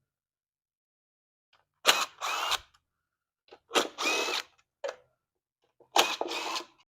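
Power drill or driver run in three short bursts about two seconds apart, each starting with a sharp hit and then whirring briefly before stopping.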